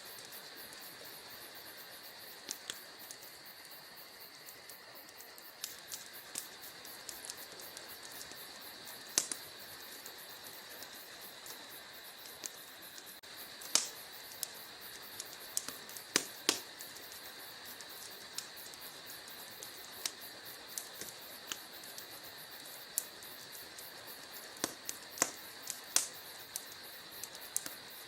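Wood fire crackling in a fireplace: irregular sharp pops and snaps, a few louder than the rest, over a steady soft hiss.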